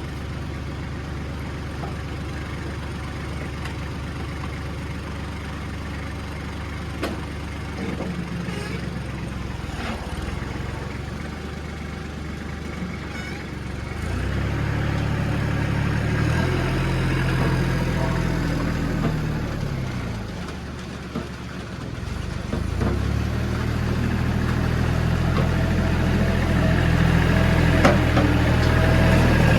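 A vehicle engine running steadily. It picks up and gets louder about halfway through, drops back briefly, then builds again near the end.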